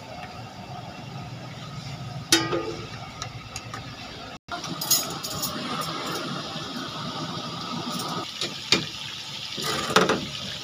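Knife work on a wooden chopping board with one sharp ringing clank about two seconds in, then, after an abrupt cut, chicken pieces frying in hot oil in iron karahi woks over gas burners: a steady bubbling sizzle with occasional pops.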